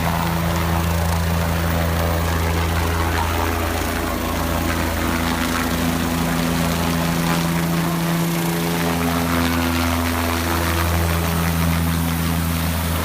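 Police helicopter running: a steady low hum of rotor and engine, its tones shifting in pitch a few times.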